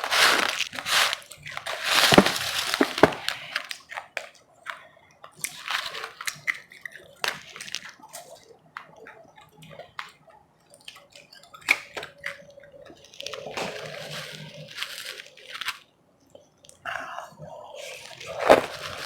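Close-miked biting and chewing of powdery ice: irregular crunches and sharp clicks, loudest in the first three seconds and again near the end, with quieter chewing between.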